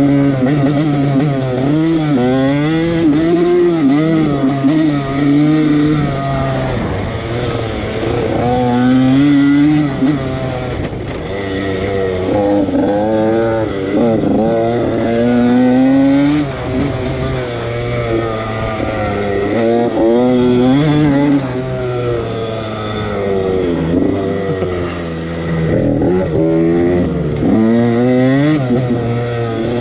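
Husqvarna TC85's 85cc two-stroke engine revving up and down again and again as the dirt bike is ridden hard, its pitch climbing and dropping every second or two.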